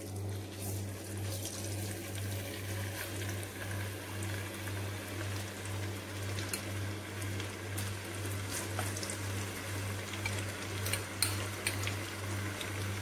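Marinated chicken pieces sizzling in hot coconut oil in a pan: a steady hiss with scattered sharp pops and spatters that come more often near the end. A steady low hum runs underneath.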